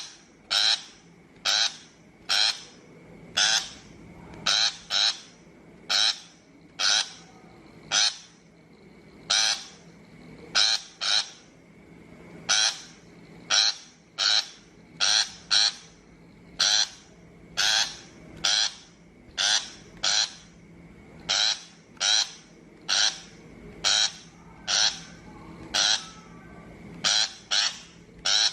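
Shrike giving repeated short, harsh calls, a little over one a second, some in quick pairs. This is a trapping lure call.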